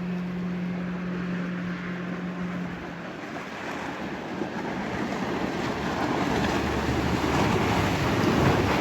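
Boats running through an inlet, with water and waves rushing. A steady low hum stops about three seconds in, and then the rushing noise grows steadily louder toward the end.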